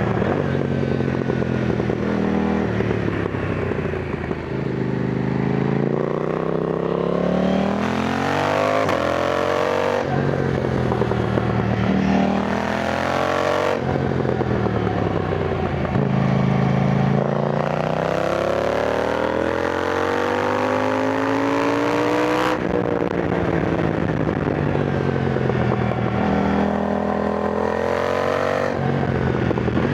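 KTM 990 Duke motorcycle's twin-cylinder engine under way, its pitch rising in long sweeps as it pulls up through the revs and dropping back sharply between them, about four times.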